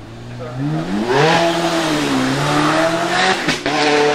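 Zenvo TSR-S's twin-supercharged 5.8-litre flat-plane V8 revving up hard as the car launches from the start line and accelerates away. The engine note climbs steeply in the first second and a half, then holds high, with a short break about three and a half seconds in.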